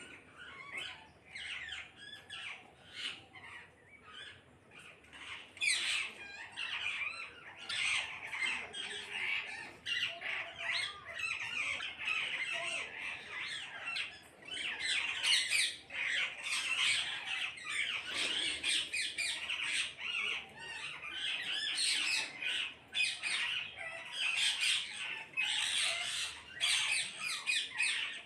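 A flock of parrots squawking: many short, shrill, overlapping calls, sparse at first and a dense, continuous din from about six seconds in.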